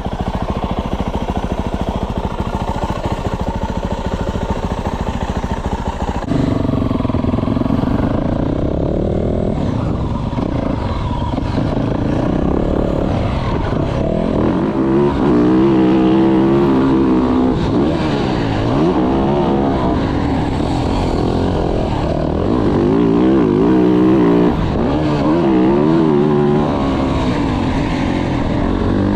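2024 Yamaha YZ450F's 450 cc four-stroke single-cylinder engine being ridden on a motocross track, revving up and down again and again as the throttle is worked. It gets louder about six seconds in.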